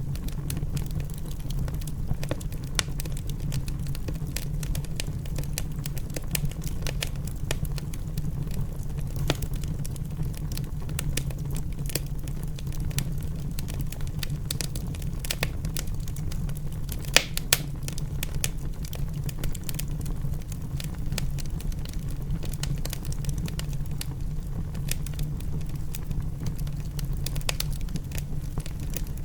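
Wood fire crackling in a fireplace: a dense run of small pops and snaps over a steady low rumble, with a couple of sharper pops about seventeen seconds in.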